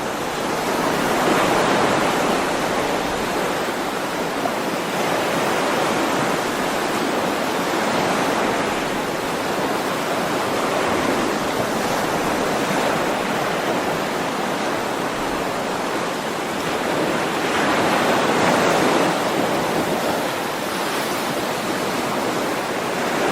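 Ocean waves washing onto a shore, a continuous rushing that swells and eases every few seconds.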